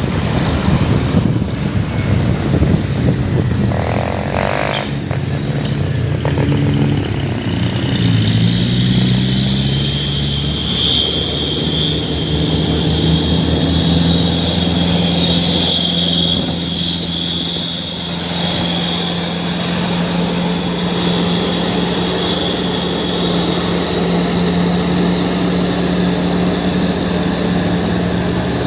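Truck engine running, its pitch changing several times in the first ten seconds and then holding steady, with a high steady whine sounding above it from about eight seconds in.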